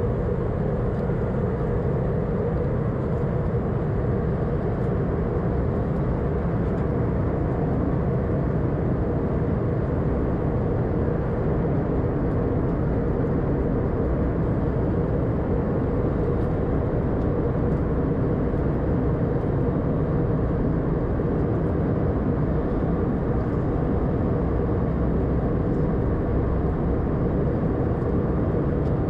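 Steady cabin noise inside an Airbus A320-200 in flight: a constant rush of airflow with the drone of its CFM56 engines, holding a steady pitch.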